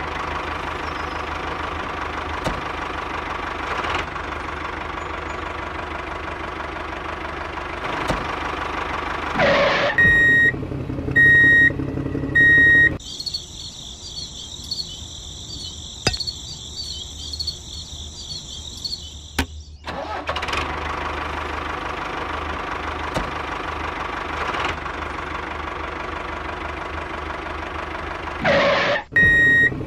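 Model tractor's engine sound running steadily. About ten seconds in, three short high beeps sound about a second apart. For about six seconds after that, only a high-pitched hiss is heard, then the engine sound resumes, with the beeps starting again near the end.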